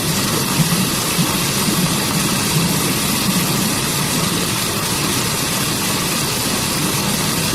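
Waterfall water pouring and rushing, a steady, dense rush with no pauses.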